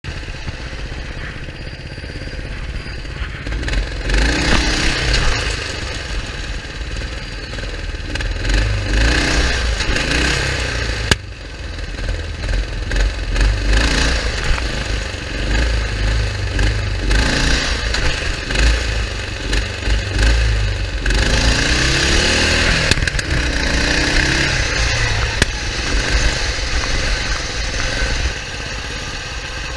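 Wheel Horse riding lawnmower's 11 hp engine running at full throttle, revving up and easing off several times in louder stretches of a few seconds each.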